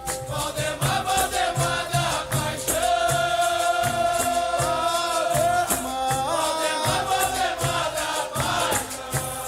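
Capoeira music: a voice singing long held notes that slide between pitches, over a steady low drum beat of about one and a half beats a second, with berimbau accompaniment.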